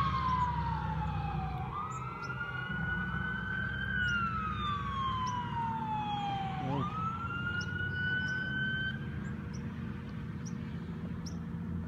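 Fire engine siren wailing in slow falling and rising sweeps, which stops about nine seconds in, over the steady low running of the truck's engine.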